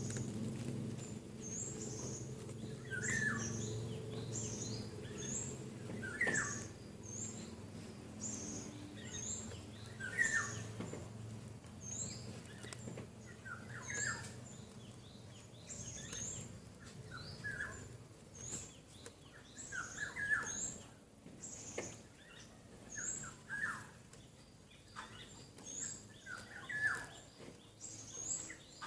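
Black-naped oriole (kepodang) calling: short downward notes repeated every second or two, with a steady run of short, very high chirps throughout. A low hum underlies the first half and fades out.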